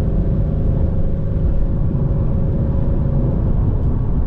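Pontiac Firebird's V6 engine running at steady revs while driving, under a heavy low rumble of road and wind noise.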